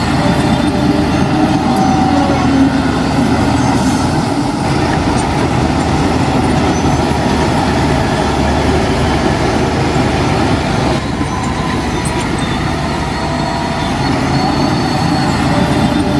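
Heavy diesel earthmoving machinery running steadily and loudly, a dense mechanical din. It eases slightly about eleven seconds in.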